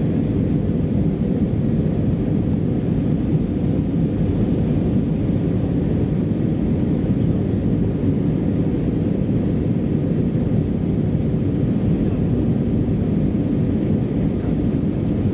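Steady in-flight cabin noise of an Airbus A320-214: a constant low rush of airflow and the CFM56 engines heard from a rear window seat.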